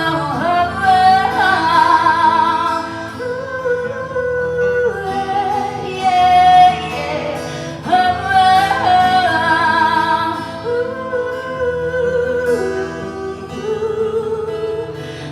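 A female singer performs live over acoustic guitar, singing long held notes with vibrato and no clear words between lines of the song.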